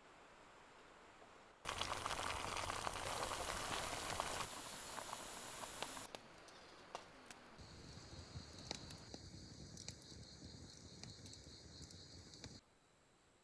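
Wood campfire crackling and hissing, with many sharp pops, in two short cuts: a louder one starting about two seconds in, then a quieter one with scattered pops that stops abruptly near the end.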